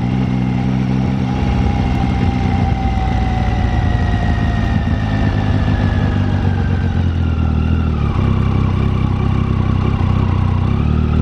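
Triumph Tiger 800's three-cylinder engine running at low revs. A whine over it falls slowly in pitch for about eight seconds, then levels off.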